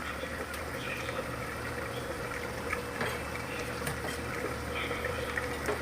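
Steady low hum and background noise with a thin steady tone, broken by a few light clicks.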